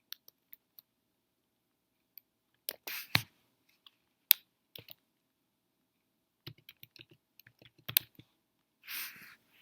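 Keys tapped on a computer keyboard in short, scattered runs of keystrokes with quiet pauses between.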